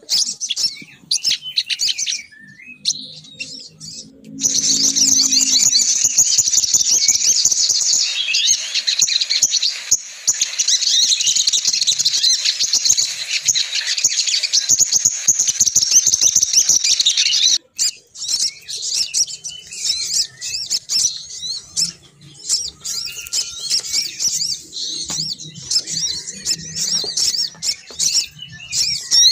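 Female sogon bird lure calls: dense, rapid, high chattering and chirping. It is loudest and most continuous through the first half, then breaks into sparser calls.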